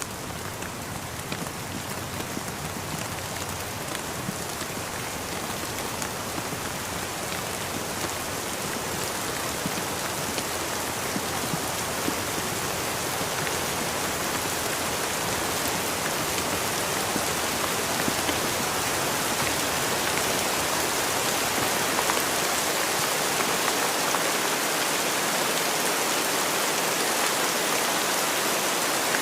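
Steady rain falling, a dense even hiss with scattered faint drop ticks, growing gradually louder through the stretch.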